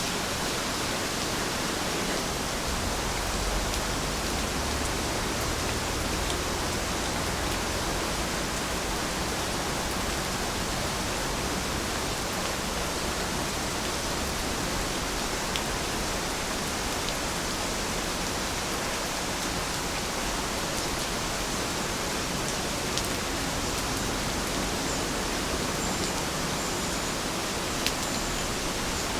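Heavy rain falling in a steady, dense hiss that holds an even level throughout, with a few sharper ticks standing out now and then.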